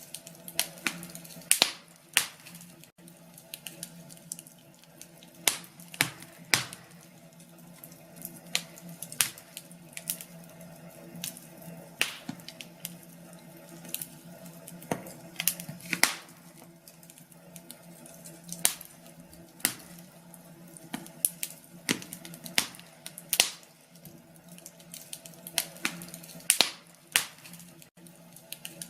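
Wood fire in a fireplace crackling: irregular sharp pops and snaps, a few louder cracks among many small ones, over a steady low hum.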